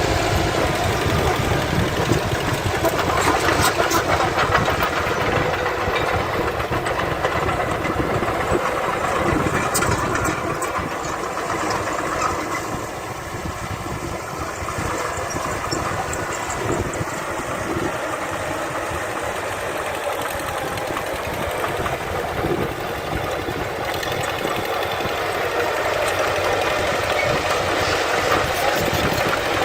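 Diesel engines of heavy earthmoving machinery running continuously, with a slight dip in loudness about halfway through.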